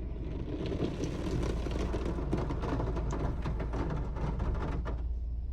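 Spray from a PDQ ProTouch Tandem touchless car wash pattering and hissing against the car's body, starting about half a second in and easing off near the end, over a steady low hum.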